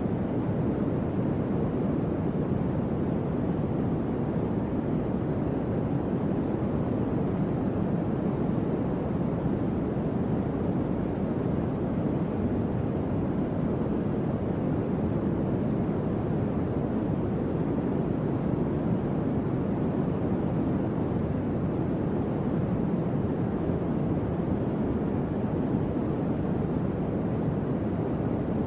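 Electric fan running steadily, a constant low whoosh of moving air with no motor hum, clicks or changes.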